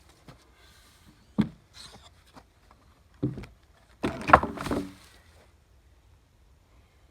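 A few sharp knocks spaced a couple of seconds apart, then a short clatter of knocks about four seconds in, the loudest part. No saw is running.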